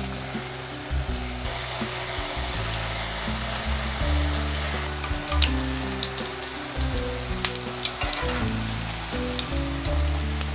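Jalebi batter spirals deep-frying in hot oil, a steady bubbling sizzle with a few sharp clicks, over background music with a stepping bass line.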